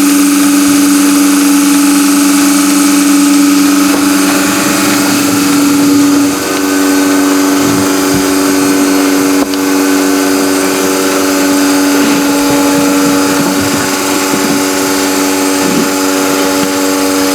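A machine hum from a motor running steadily at one pitch, dipping briefly about six seconds in.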